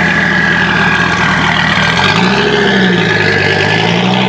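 Car engine running and being blipped, its note rising about two seconds in, with a steady high whine over it that sounds like a turbo though the car isn't turbocharged.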